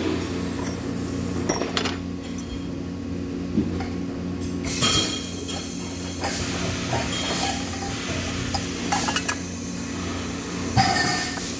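Metal parts clinking and knocking now and then over a steady machine hum.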